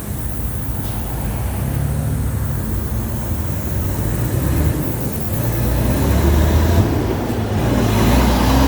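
City bus running, a low engine drone that grows louder over the last few seconds.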